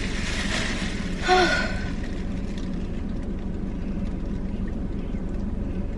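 Steady low hum of a car's interior, with a short voiced sigh about a second and a half in.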